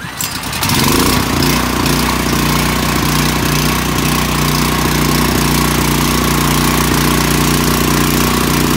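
Ryobi 5500-watt portable gas generator started on its electric start: the starter cranks for under a second, then the engine catches and runs steadily and loud.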